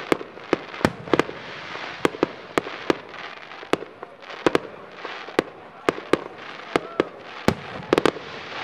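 Aerial fireworks display: an irregular run of sharp bangs from bursting shells, about two a second, with crackling between the bangs.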